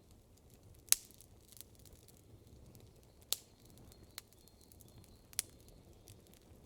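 Campfire crackling: a few sharp, scattered wood pops, the loudest about a second in, over a faint low background hiss.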